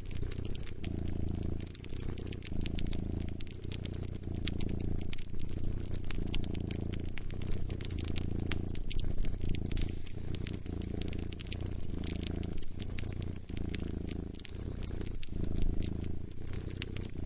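A domestic cat purring close up, the purr swelling and breaking about once a second as it breathes in and out, over a wood fire crackling with many small sharp snaps and pops.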